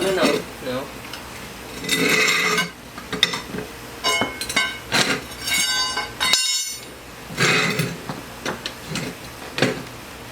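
Metal clinks and sharp clicks with bursts of scraping as a go-kart tire is pried and worked off its rim by hand; one clink rings briefly.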